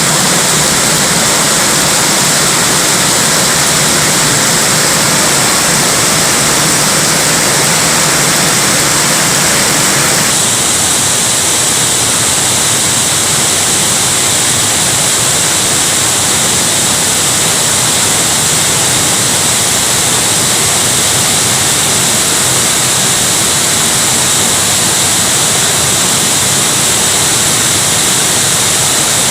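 A waterfall in full monsoon flow, water rushing loudly and steadily. About ten seconds in, the rush changes abruptly, losing some of its middle and becoming more hissy.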